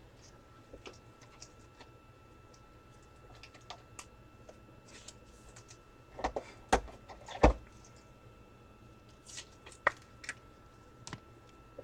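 Scattered light clicks and taps of trading cards and plastic card holders being handled on a table, with a few louder knocks between about six and seven and a half seconds in. A faint steady whine sits underneath.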